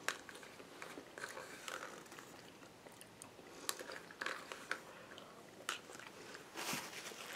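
Close-up chewing of charred jalapeño corn, with sharp clicks of a plastic utensil against a small plastic cup scattered through, and a louder scuffing sound near the end.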